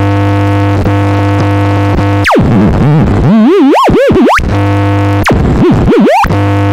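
Dark ambient experimental electronic music: a steady buzzing drone, broken twice by a theremin swooping up and down in pitch.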